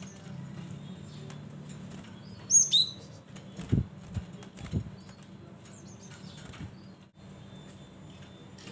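Cinereous tit (gelatik batu) giving a sharp, high call with a falling note about two and a half seconds in, with a few fainter chirps. A few soft low thumps follow over a steady low hum.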